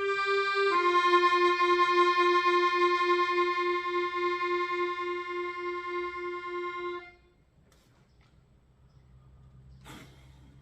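Accordion playing the closing chords of a tune: a change of chord about a second in, then one long held chord with a pulsing low note that stops about seven seconds in. After it, faint room noise and a soft click near the end.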